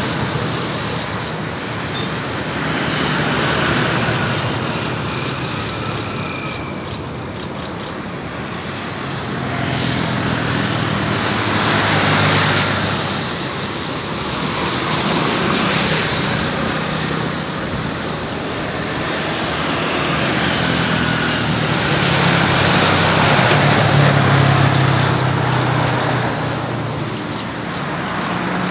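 Road traffic noise, vehicles passing one after another so that the sound swells and fades every few seconds over a steady low engine hum.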